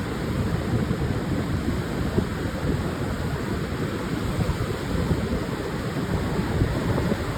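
Pacific surf washing onto a sandy beach, a steady low rushing with wind buffeting the microphone.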